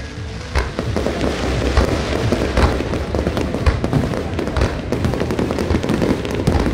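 Fireworks display going off in a dense barrage: a continuous low rumble of booms with many sharp cracks layered over it.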